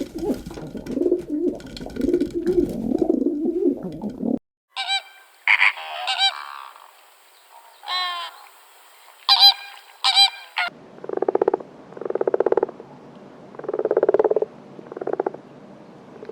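A succession of different animal calls. First comes about four seconds of low, rough calling. Then there are several separate high-pitched calls, and near the end a series of low calls, each made of rapid pulses.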